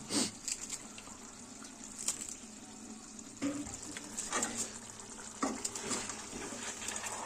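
Chicken cooking in a steel kadhai with a low, steady sizzle, and a slotted spoon scraping and knocking against the pan now and then as it is stirred.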